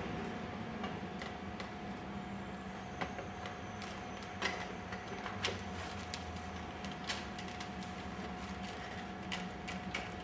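Scattered light clicks and taps of plastic parts being handled as a printed header panel is pushed into an injection-moulded plastic holder with rows of teeth, over a faint steady hum.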